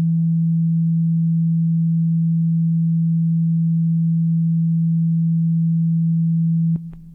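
Korg Volca FM synthesizer holding one low, nearly pure sustained tone at a steady level, with a faint higher overtone dying away in the first second. The note cuts off near the end, just before new keyboard-like notes begin.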